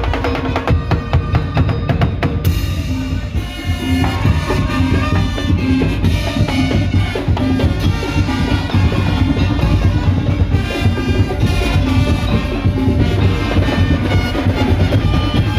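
Madurese ul daul (tong-tong) street percussion ensemble playing: dense, driving drumming with a repeating pitched melodic figure over it.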